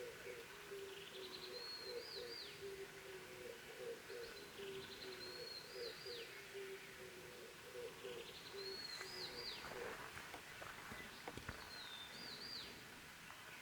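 A songbird repeats the same short, high phrase four times, about every three and a half seconds: a quick rising slur ending in a sharp downward flick. Under it runs a steady low wavering hum that fades out about ten seconds in, and a few soft clicks follow near the end.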